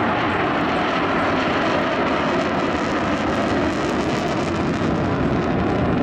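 Boeing Stearman biplane's radial engine running steadily during a low flying display.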